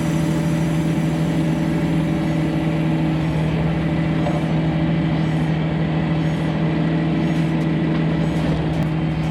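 John Deere 5075E tractor's diesel engine running at a steady speed, a loud, even drone that does not change.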